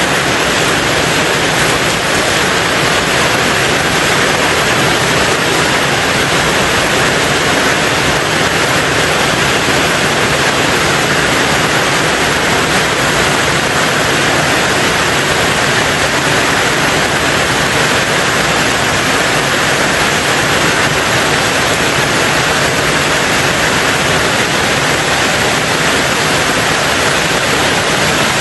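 Rain falling steadily on a tin roof: a dense, even hiss of rain without let-up.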